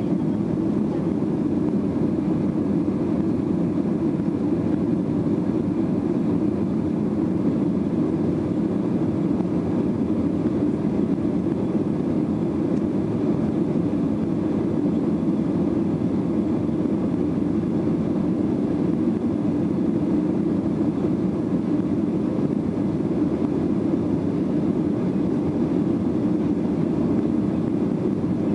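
Steady engine and airflow noise inside the cabin of a Boeing 737-800 during departure, its CFM56-7B turbofans running at high power. The noise is an even, deep rush that holds level with no change.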